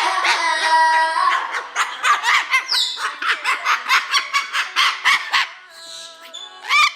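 Pet parrot vocalizing in its trained 'singing' to a beat: a few held notes, then a quick run of short rhythmic calls at about four a second, and arching squawks near the end.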